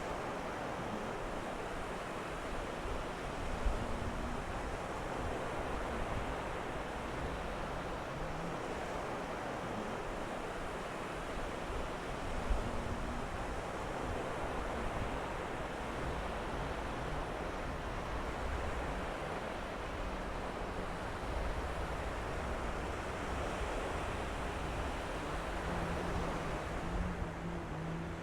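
Surf washing onto a beach, a steady rush of wave noise with some wind on the microphone.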